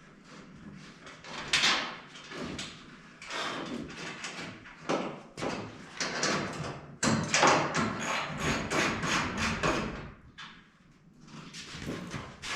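Irregular clatter and knocks of tools and parts being moved and set down, busiest in the middle and briefly quieter near the end.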